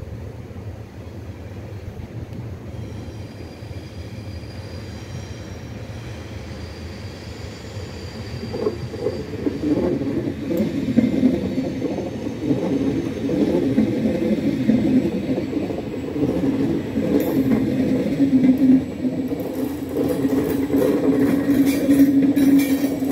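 Trenitalia Vivalto double-deck push-pull train, with an E464 electric locomotive pushing at the rear, rolling slowly past along the platform track. The wheels on the rails make a low rumble that grows markedly louder about eight seconds in as the coaches draw level, with a steadier low hum through the second half.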